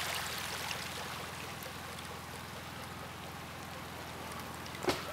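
Boat engine running steadily with a low hum, under the wash of water and wind. A single sharp click comes near the end.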